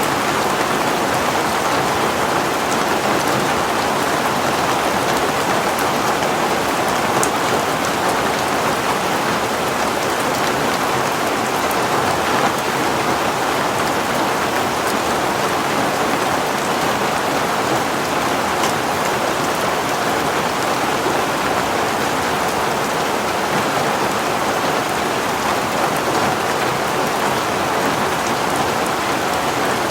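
Heavy rain falling steadily, an even unbroken rush with no thunder.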